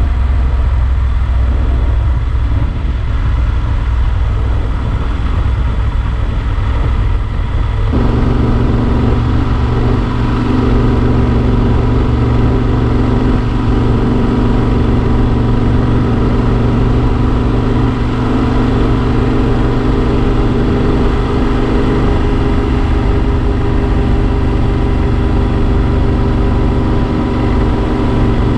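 Yamaha XT1200 Super Ténéré's parallel-twin engine running at a steady pace under way, with wind noise on the bike-mounted camera. About eight seconds in the engine note changes and holds steady after that.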